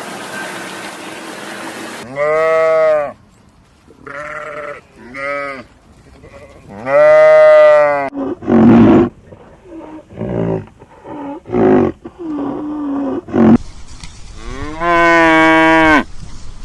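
A steady hiss for about two seconds, then cattle mooing: several long, loud calls about two and seven seconds in and again near the end, with a run of shorter calls between.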